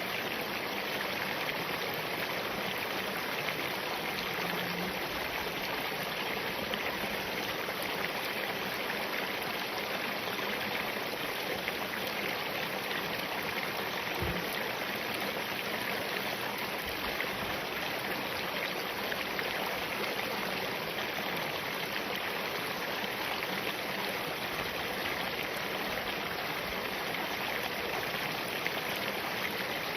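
Spring-fed mountain stream flowing steadily over and between rocks, a continuous even rushing of water.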